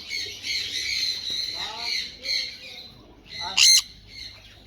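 Sun conure chattering and squawking in a steady stream of high calls, then one short, very loud, shrill screech about three and a half seconds in.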